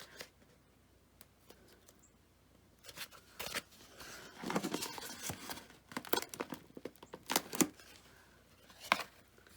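Hands handling and gluing foam-board pieces: after a quiet start, scattered sharp clicks, scrapes and crinkling.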